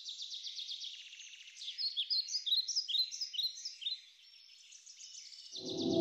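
Wild birds singing: rapid trills and repeated high chirps, busiest in the middle. Near the end a low gong fades up, ringing with many overtones.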